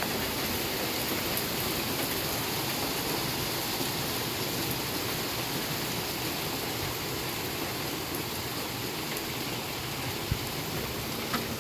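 Steady rain falling, an even hiss with faint scattered drop ticks and two short knocks near the end.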